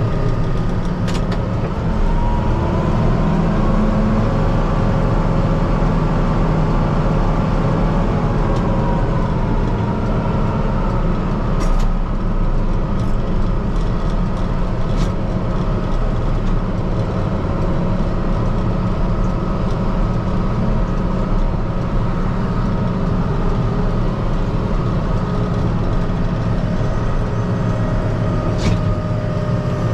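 Kubota M5-091 tractor's four-cylinder turbo diesel engine running steadily, heard from inside the cab. Its pitch rises a couple of seconds in and eases back down around ten seconds in, with a few faint clicks.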